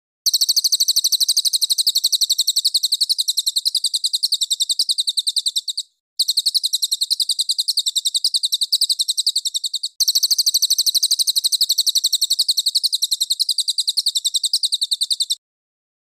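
Recorded songbird call played as a training 'master' for cage birds: a very rapid, high-pitched chattering trill of evenly repeated notes. It comes in three long runs, each starting and stopping abruptly, with brief breaks about six and ten seconds in.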